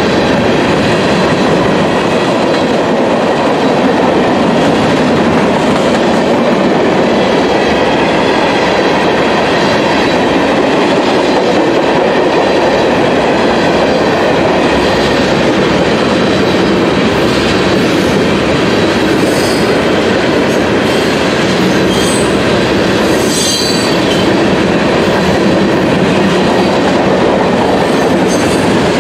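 Freight train of tank cars and covered hoppers rolling past at speed: a steady, loud noise of steel wheels on the rails. Brief high-pitched wheel squeals come about two-thirds of the way through.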